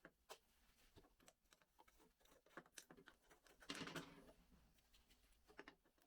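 Faint handling noises: scattered light clicks and taps of small parts, with a short rustling scrape about four seconds in.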